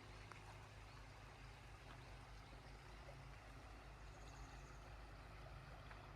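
Faint, steady rush of a river flowing, with a few soft clicks.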